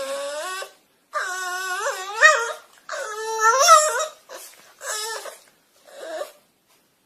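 A dog whining in a series of long, wavering, pitch-bending cries, about six in all, the later ones shorter and quieter.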